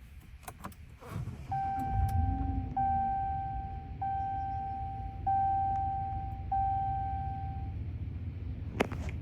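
An electronic chime sounding five times in a row, each tone held about a second, over a low background rumble. A few clicks come in the first second, and a sharp knock comes near the end.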